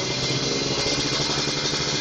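Exhaust of a Kawasaki Ninja RR's single-cylinder two-stroke engine, running steadily with a raspy, buzzing note.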